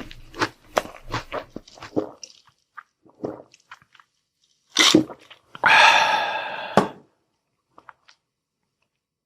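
Close-miked chewing: a quick run of crunches and mouth clicks for about two seconds, then scattered soft clicks. About five seconds in comes a short noisy sound, then a louder, longer noisy one of over a second, ending in a sharp click, then near silence.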